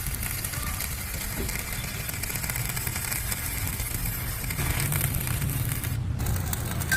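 Steady mechanical rattling and whirring with rapid fine clicking over a low rumble, like a small geared mechanism running. There is a brief break about six seconds in.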